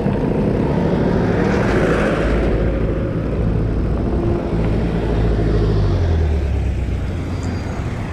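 Motor vehicle engine running with a steady low rumble and road noise; the low engine note grows stronger through the middle and eases off near the end.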